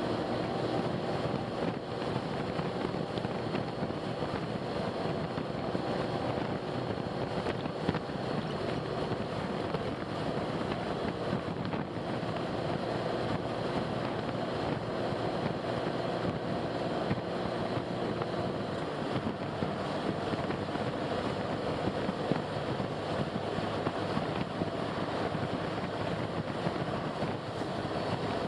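Steady driving noise of a car on the road: a constant rush of tyre and wind noise with a faint, even engine hum.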